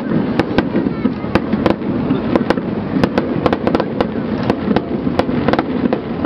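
Aerial fireworks display: many sharp bangs of shells bursting, several a second and irregular, over a continuous rumble of booms.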